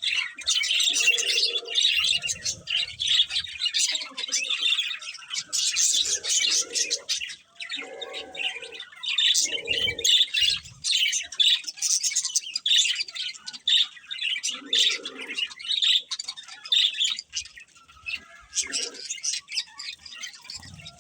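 Budgies chirping and chattering without a break: a dense stream of quick, high chirps and warbles.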